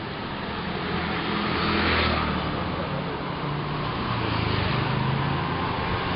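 Street traffic: motor vehicles running close by in a narrow street, their engine noise swelling about two seconds in and again near the end.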